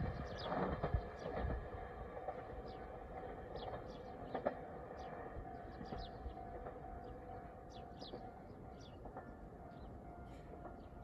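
Rumble of a limited express train that has just passed, fading away over the first second or two. A faint steady tone lingers after it, with short high chirps scattered throughout.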